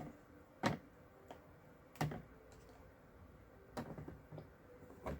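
Irregular light clicks and taps of small hard craft supplies, such as ink pads and stamps, being picked up, set down and handled on a desk, about six in all.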